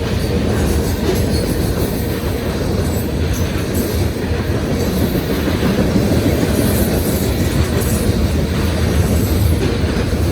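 CSX freight train of covered grain hoppers passing close at speed: a loud, steady rumble and rattle of steel wheels on the rails.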